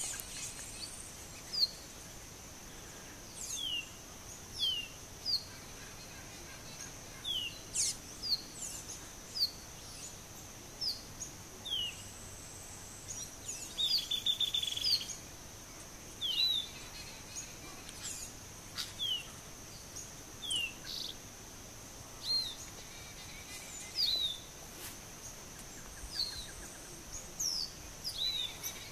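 Small birds calling: short, downward-slurred chirps repeated about once a second, with a brief rapid chatter about halfway through, over a steady high-pitched hum.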